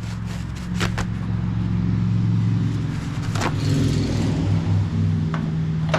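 A steady low mechanical hum, with three sharp clicks spread through it and a brief hiss about halfway through.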